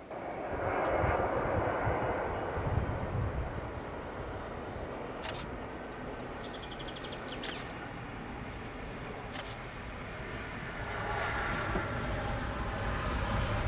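Airbus A220-100's geared turbofan engines on landing approach: a jet rumble that swells about a second in, holds steady, then grows louder with a whine near the end as the aircraft nears. Three sharp clicks sound in between.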